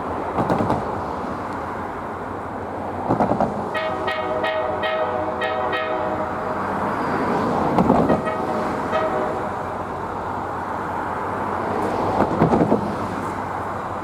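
Diesel locomotive air horn sounding a chord of several tones, one long blast of about two seconds and then a shorter one of about a second, over the steady rumble of the train.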